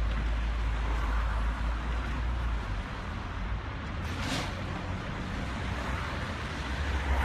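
Vehicle road noise: a steady low rumble and hiss, with a short sharp hiss about four seconds in.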